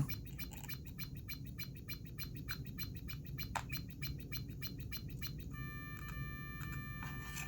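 Circuit-bent Big Bird's Talking Bingo toy glitching through its small speaker, with its speech chip shorted into a fast, even stutter of clicks and chirps. About five and a half seconds in, a steady chord of high buzzing tones sets in over the clicks.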